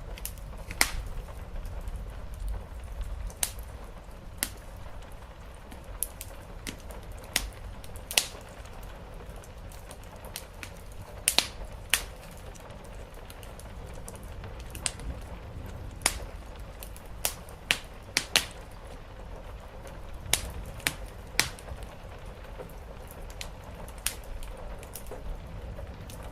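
Fireplace fire crackling, with irregular sharp pops and snaps, some in quick clusters, over a steady low rumble and a soft even hiss of rain.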